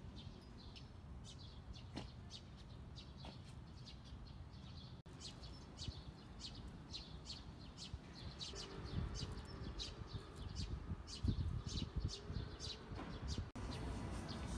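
Small birds chirping in quick, short, high notes again and again, over a low outdoor rumble that swells in the second half.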